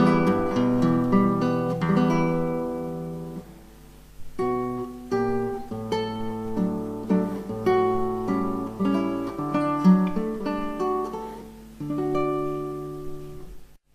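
Background music on acoustic guitar, plucked notes over bass and chords, pausing briefly about a quarter of the way in and stopping suddenly at the end.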